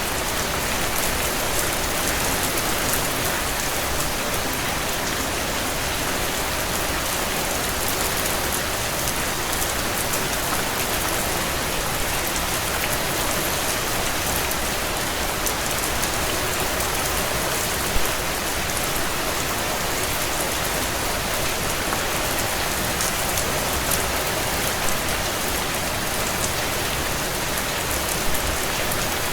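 Steady heavy rain pattering on window panes, with a few sharp crackles from a wood fire, one about 18 seconds in and a couple near the end.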